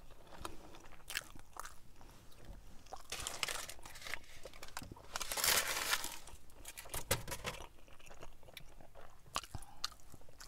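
Close-up chewing and mouth sounds of someone eating a Chipotle chicken burrito, with many short wet clicks and a louder, longer stretch about five seconds in.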